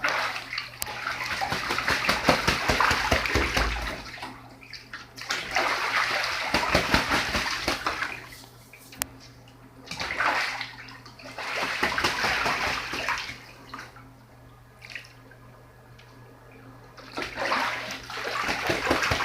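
A goose splashing in bathtub water, in four bursts of a few seconds each with quieter pauses between.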